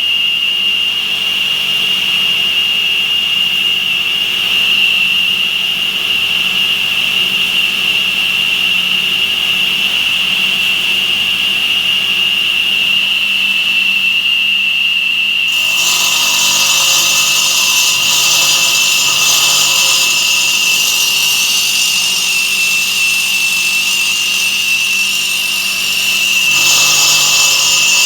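Automatic stone-cutting machine's saw blade running with a steady high whine as it cuts stone. About halfway through, a harsher hiss of cutting joins in and keeps on.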